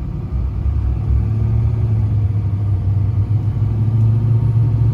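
Pickup truck driving on the road: a steady low engine and road drone with no change in pace.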